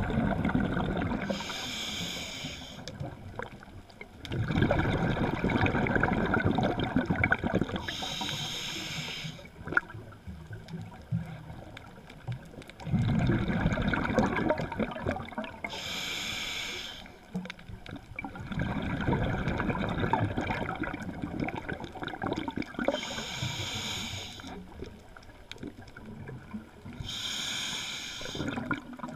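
Scuba diver breathing through a regulator underwater: a short hiss of the demand valve on each inhale, then a longer rush of exhaled bubbles. Five breaths, one every six to eight seconds.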